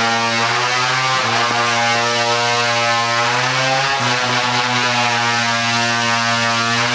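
A small engine running steadily at an even, constant pitch, with slight dips in pitch about a second in and again near the middle.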